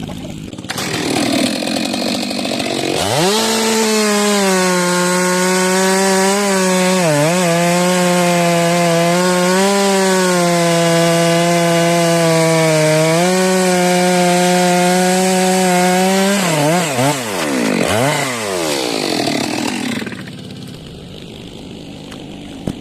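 Stihl MS 462 two-stroke chainsaw revving up to full throttle about three seconds in and cutting wood for some thirteen seconds, its pitch dipping briefly now and then. It then drops back, revs once more and falls quiet near the end.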